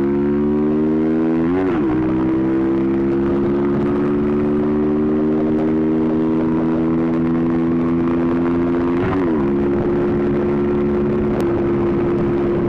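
Motorcycle engine running under way, its note rising at first, then holding fairly steady. It dips briefly and recovers twice, about two and nine seconds in.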